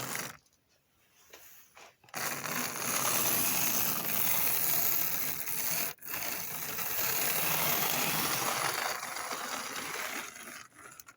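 HO-scale Lima FP45 model locomotive running on track under its ringfield motor, a steady whirring of motor, gears and wheels on rail, with a brief dropout about halfway through.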